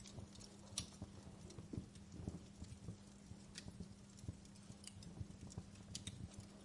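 Wood fire crackling in a fireplace: irregular sharp pops and snaps over a low rumble of burning logs, with one louder pop about a second in. A faint steady hum runs underneath.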